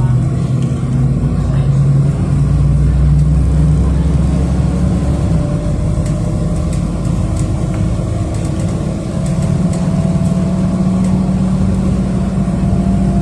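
City bus engine and drivetrain running while the bus drives along, heard from inside the passenger cabin. The engine note shifts in steps during the first few seconds, then a faint whine rises slowly as the bus picks up speed.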